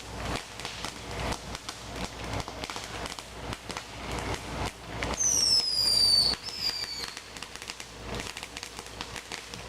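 Fireworks going off: a steady run of pops and crackles. About five seconds in, a whistling firework gives a shrill whistle that falls in pitch for about a second, followed by a shorter second whistle.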